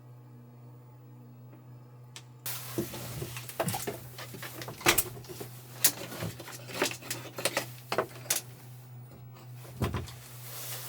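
Things being handled: a quick run of knocks and clatters over a hiss that starts suddenly about two and a half seconds in, above a steady low hum.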